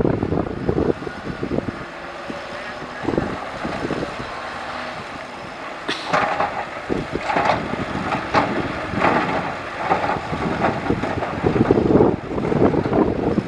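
Heavy earthmoving machinery working, a diesel engine running under a continuous rumble, with a run of clattering knocks from about six seconds in.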